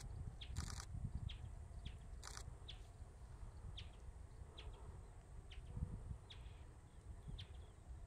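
Bristled grassbird calling: short, high notes repeated about once a second, with three brief harsh, buzzy notes in the first two and a half seconds, over a low rumble.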